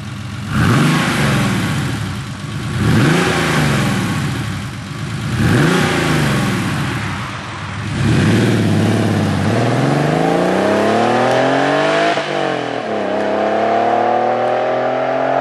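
Porsche 964 Carrera's air-cooled 3.6-litre flat-six, breathing through a Fabspeed dual-outlet Maxflo muffler, revved up and back down three times in quick succession. It then accelerates hard, with the pitch climbing steadily, drops sharply at an upshift about twelve seconds in, and climbs again in the next gear.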